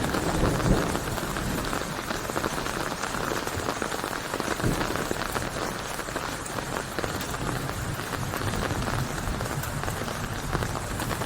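Steady rain falling, a dense spread of individual drop hits on a surface over an even hiss.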